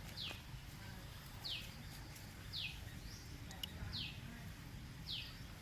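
A bird calling over and over, each call a short high note sliding downward, about once every second and a bit, five times in all. A low steady rumble lies underneath.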